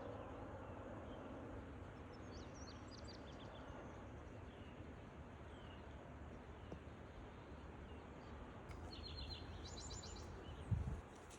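Small birds chirping over a steady low background rumble. There are a few scattered chirps a couple of seconds in, then a quick run of repeated high chirps near the end, followed by a short low thump.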